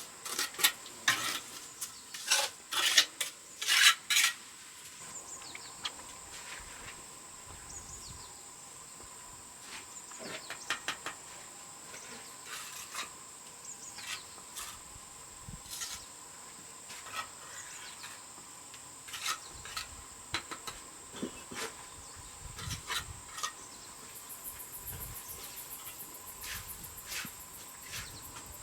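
Sharp clinks and scrapes of hard objects being handled, loud and close together for the first few seconds, then scattered. Underneath, insects buzz steadily, and a fast cricket trill joins near the end.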